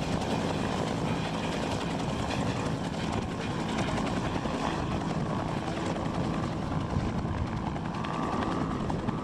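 Helicopter running steadily nearby, its rotor and turbine making a continuous loud noise.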